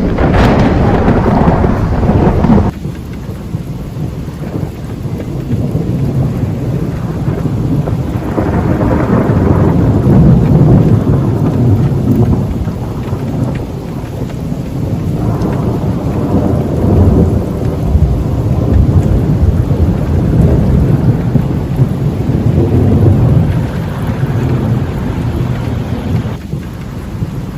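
Thunder rumbling over steady rain during a thunderstorm: a loud crash at the start breaks off abruptly about three seconds in, then long low rolls of thunder swell and fade several times.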